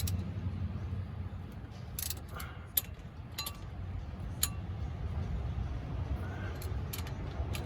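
Scattered, irregular sharp metallic clinks and ticks of a wrench and bolts as the clutch pressure-plate bolts are run down hand tight, over a steady low hum.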